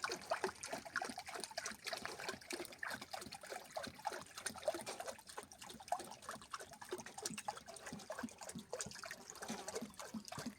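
Water trickling, with many small irregular drips and splashes.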